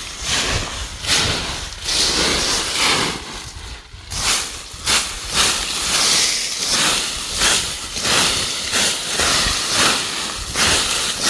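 Rustling and crunching of dry plants and leaves in irregular bursts, about one or two a second.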